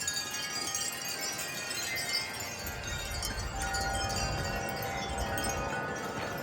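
Several wind chimes ringing together in strong gusts, with many overlapping sustained tones.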